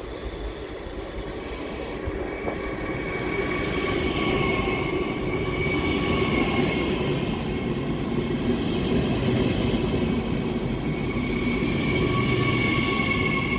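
A train running past on the rails, its rumble building over the first few seconds and then holding, with a steady high whine on top.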